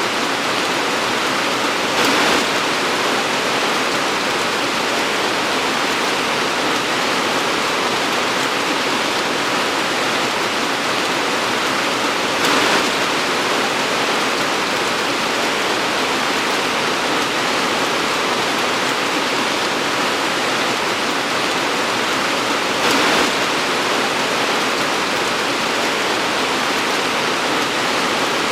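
Torrential rain pouring steadily, a dense even hiss, with a brief louder swell three times, about ten seconds apart.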